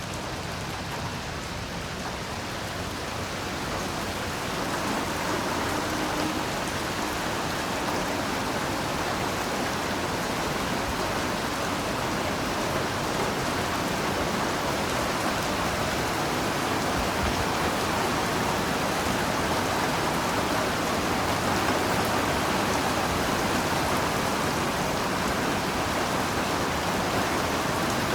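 Heavy rain falling steadily, a dense even hiss of drops that swells a little over the first few seconds and then holds steady.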